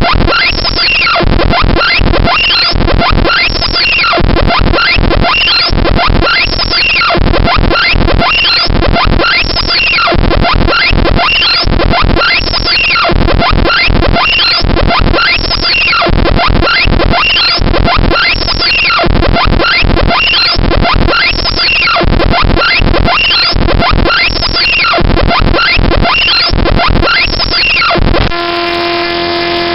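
Loud, harsh, looping electronic bytebeat-style audio played by GDI malware: a rhythmic pattern of sweeping chirps over a buzzing bass. Near the end it switches abruptly to a quieter set of steady buzzing tones.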